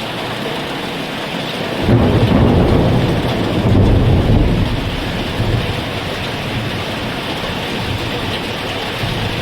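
Heavy rain falling steadily, with a low rumble of thunder rolling in about two seconds in and fading out a few seconds later.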